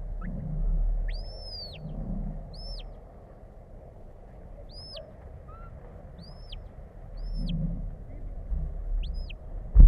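Sheepdog handler's whistle commands to a working dog: six whistles, each sweeping up and back down in pitch, the first one longer than the rest. A loud thump right at the end.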